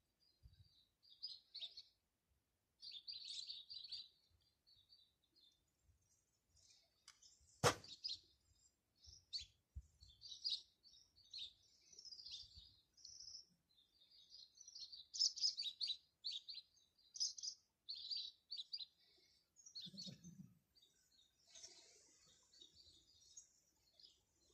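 Birds chirping in quick short calls, on and off throughout, with one sharp click about eight seconds in.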